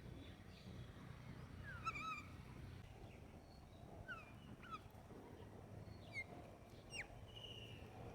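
Faint scattered bird calls: short whistled notes and chirps every second or two, several sliding down in pitch, over a low steady rumble.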